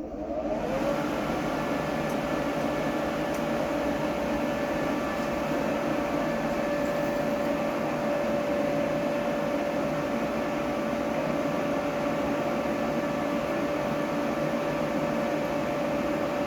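An electric blower motor, most likely the forge's air blower, switched on. It spins up over the first second, then runs steadily with an even rush of air and a steady hum.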